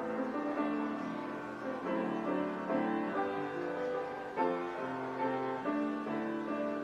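Instrumental keyboard music: held chords with a moving melody line, no singing.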